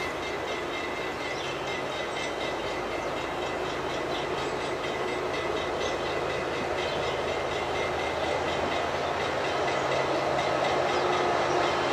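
Freight train running on the tracks: a steady rolling noise of wheels on rail that grows gradually louder.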